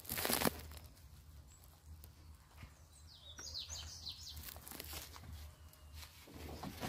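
A few quick bird chirps about halfway through, over faint rural outdoor ambience, after a short rustle at the very start.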